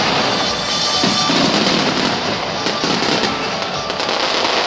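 Starmine fireworks barrage: many shells bursting and crackling in quick succession, with music playing underneath.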